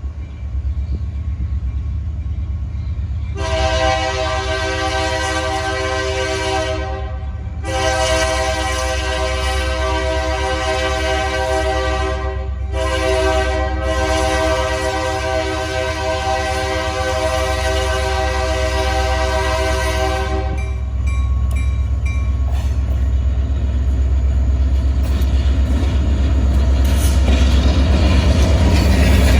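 Diesel locomotive air horn sounding a chord of several notes in three blasts, the last one held for about eight seconds, over the low rumble of the locomotives' diesel engines. The engine rumble grows louder toward the end.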